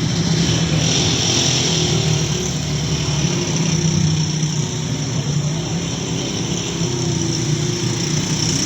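A vehicle engine running steadily under the continuous hiss of heavy rain and running water.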